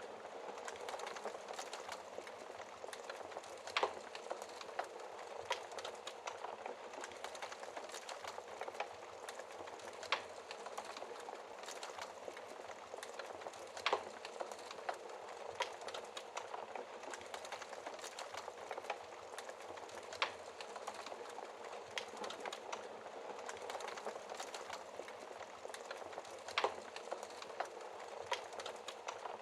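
Wood fire crackling in a fireplace: a steady hiss of small crackles, with a sharper pop every few seconds.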